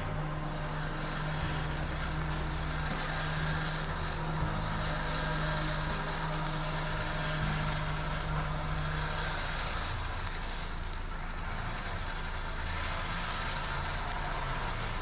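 Engine running steadily. A steady low hum in it drops away about nine and a half seconds in.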